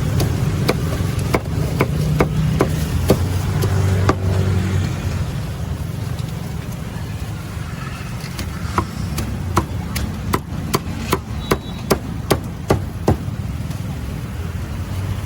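Cleaver chopping on a cutting board: sharp separate strokes, a few in the first four seconds and then a quicker run of about two a second, over a steady low rumble of traffic.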